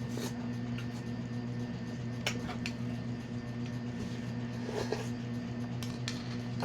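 Eating sounds at a meal of rice and vegetables: a few short, light clicks of utensils and chewing over a steady low hum.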